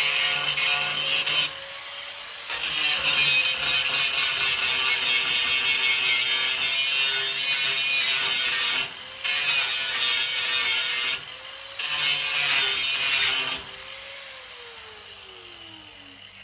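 Electric angle grinder grinding steel in four passes, its motor running on between them. Near the end it is switched off and its whine falls as it spins down.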